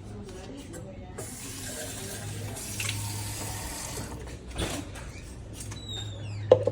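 A kitchen tap running for about three seconds, then shut off, followed by a couple of sharp knocks.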